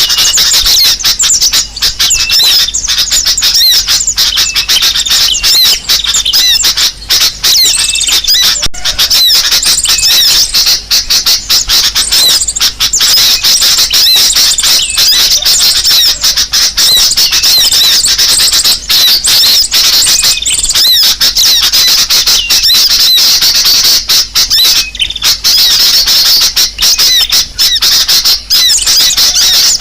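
Bird-lure recording of sunbird (kolibri sogo ontong) calls: a loud, unbroken stream of rapid, high-pitched chirps and squeaky chitters, used to draw small birds in.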